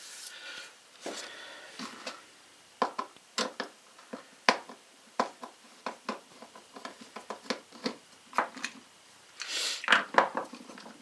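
Irregular clicks and light knocks of a Husqvarna 435 chainsaw's recoil starter being handled and taken apart by hand to reach a jammed rewind spring, with a few short scraping rustles.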